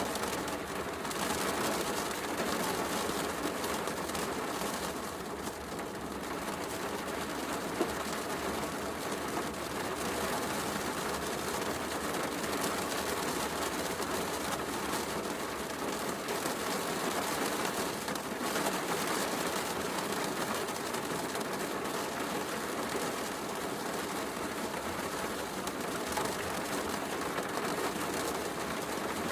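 Steady heavy rain, an even hiss, with a wood fire crackling now and then in a fireplace.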